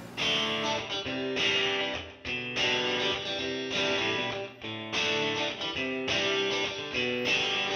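Background music: guitar playing steady picked chords that change about every second.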